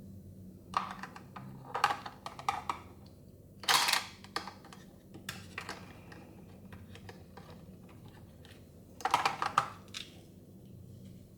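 Small hard plastic toy pieces clicking and tapping against each other as they are handled, in several quick clusters, with a brief scratchy rustle about four seconds in.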